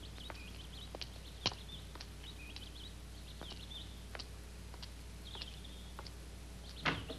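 Birds chirping in short, scattered calls over a steady low hum, with a few sharp clicks or knocks, the loudest of them near the end.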